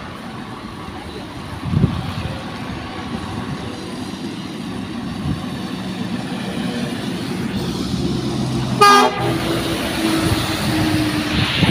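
A passing lorry's engine rumble grows steadily louder as it approaches, with a short air horn blast about nine seconds in.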